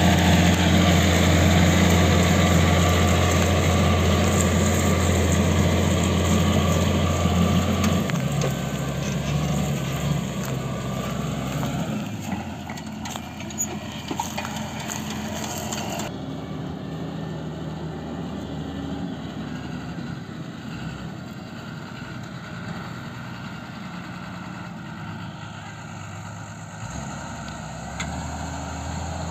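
Tractor diesel engine running steadily, loud at first with a deep hum, then growing fainter from about eight seconds in. About halfway through the sound turns duller.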